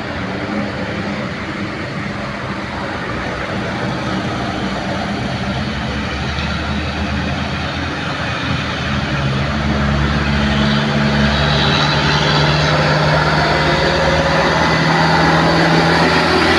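Heavy sugarcane truck's diesel engine running with a steady low drone over road noise. It grows louder from about halfway through as the truck draws near.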